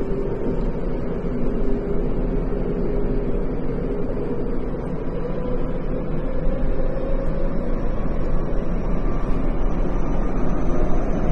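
Tokyo Metro 10000 series electric train running between stations, heard from inside the car: a steady rumble of wheels on rail, with a faint motor tone slowly rising in pitch.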